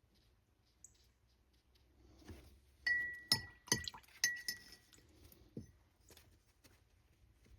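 Glass clinking: a hard object tapped about four times against a small glass jar over a second and a half, each tap ringing briefly.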